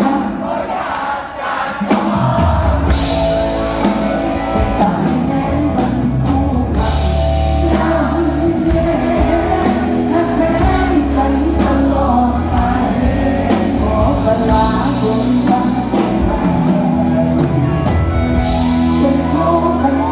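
Live band playing luk thung/mor lam music with drums, bass and a melody line, and singing over it.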